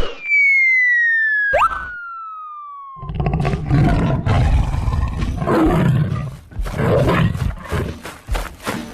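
Cartoon sound effects: a falling whistle-like tone for about three seconds, cut across by a quick rising swoop halfway through, then a long, loud, rough roar of a big cat such as a lion or tiger.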